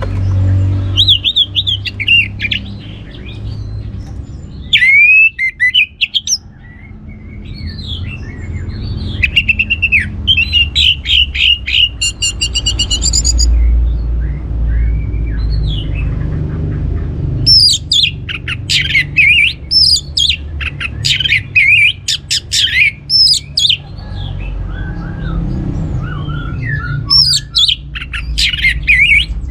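Orange-headed thrush singing: loud, varied phrases of quick whistles and rapid trills, in several bursts with short pauses between. A steady low rumble runs underneath.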